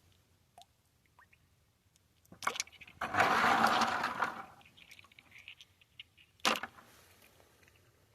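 Rocks being handled in a bucket of rainwater: a couple of sharp knocks, then about a second of water sloshing and splashing, then another single sharp knock near the end.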